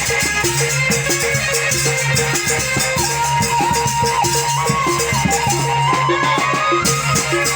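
Sasak ale-ale ensemble music from Lombok: a steady, busy drum pattern with a shaker, and a wavering high melody line that comes in about three seconds in.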